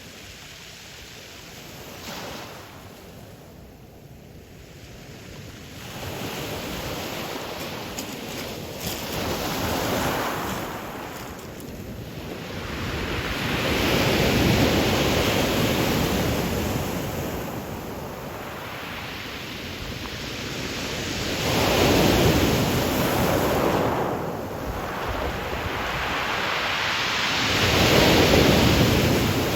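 Ocean surf breaking and washing up a pebble beach, coming in surges about every six to eight seconds. The first few seconds are quieter, and the loudest wave comes near the end.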